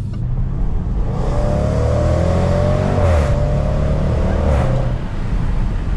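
Range Rover Sport SVR's supercharged 5.0-litre V8 accelerating hard: the engine note climbs, dips briefly about halfway through, climbs again, then eases off near the end.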